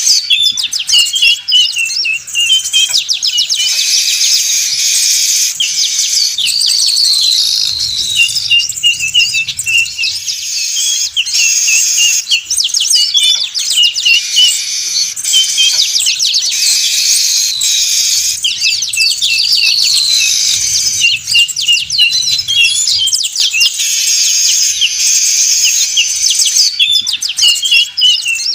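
Weaver birds (manyar) in a noisy flock chorus, a dense loud chatter of buzzy, trilling calls, used as a bird-trapping lure. The same stretch of calls comes back about every twelve seconds, as in a looped recording.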